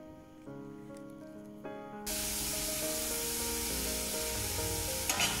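Background music; about two seconds in, sliced onions frying in oil in a pan start sizzling under it, with a short louder burst of sizzle near the end.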